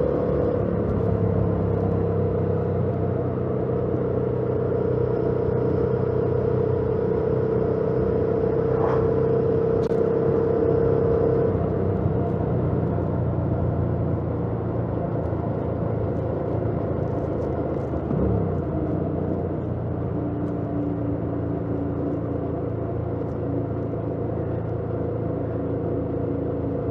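2018 Yamaha MT-07's parallel-twin engine running under way, heard over wind and road noise at the rider's helmet. The note holds steady, then drops lower about halfway through and settles at a lower steady pitch near the end.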